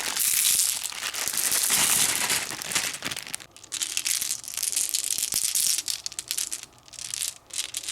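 White plastic ball rolling through a Kumikumi Slope plastic marble-run track: a steady rattling rush for about three seconds, then scattered clicks and taps as it runs on through the pieces.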